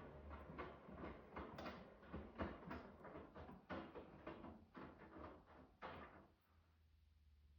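Miele W2 front-loading washing machine drum tumbling a load of jeans and dark clothes. The clothes drop with soft, quick thuds over a low motor hum, and the drum stops turning about a second before the end, as it does before it reverses.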